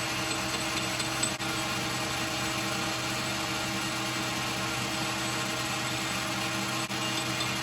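Metal lathe running under cut, its motor hum steady beneath the even hiss of a tool cutting the metal pin stock.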